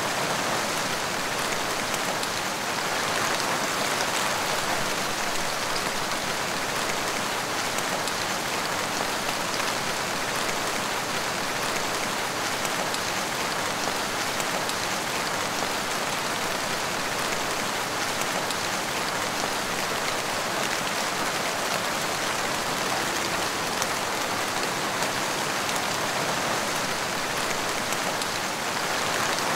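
Heavy rain falling steadily: an even hiss of many drops, with no change in strength.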